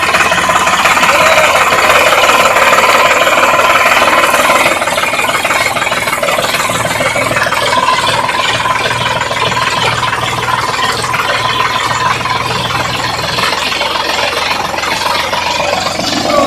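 Sonalika DI 740 tractor's diesel engine running steadily, a little quieter after about five seconds.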